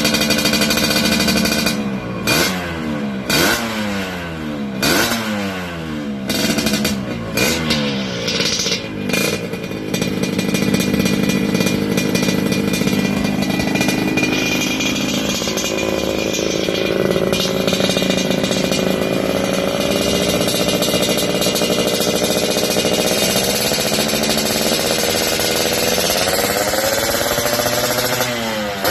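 Yamaha RX-King two-stroke motorcycle engine through an aftermarket racing exhaust, revved in a series of sharp blips and then held at high revs, climbing slowly near the end and dropping off at the close.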